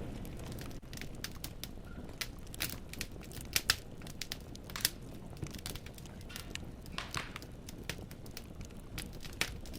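Wood fire in a fireplace crackling: irregular sharp pops and snaps of burning logs, several a second, over a low steady rumble of the flames.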